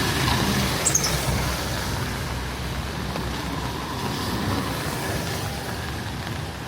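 City street traffic: a vehicle's engine rumbling close by in the first second or so, then a steady wash of traffic noise. A brief high squeak sounds about a second in.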